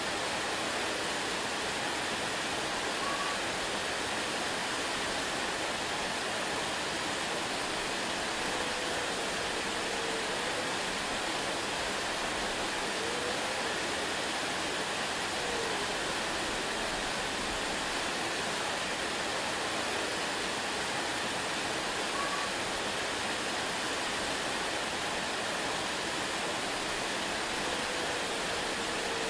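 Waterfall: falling water rushing in a steady, even noise, with a few faint short whistled notes now and then.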